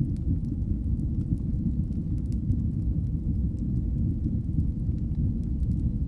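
Wood fire burning in a fireplace: a steady low rumble of the flames with scattered small, sharp crackles and pops.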